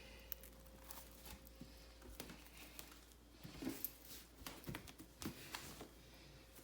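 Small pets faintly nibbling pieces of bell pepper, with scattered soft crunching clicks and rustles.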